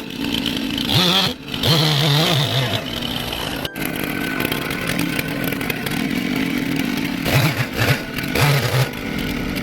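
Chainsaw cutting into wood, its engine rising and falling in revs as it carves, with a sudden break about a third of the way through.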